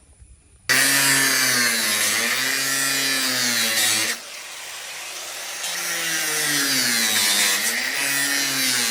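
A small motor or power tool starts up suddenly and runs loudly, its pitch rising and falling. It eases off about four seconds in, then picks up again.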